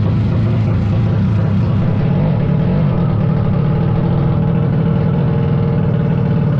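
Drag-race motorcycle engine running loudly at a steady pitch.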